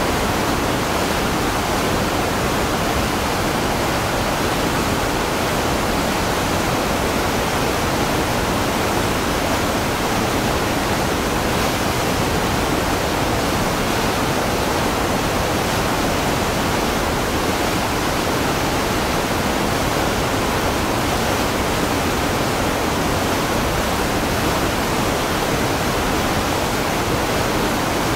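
Waterfall: water falling and splashing in a steady, dense rush that does not change.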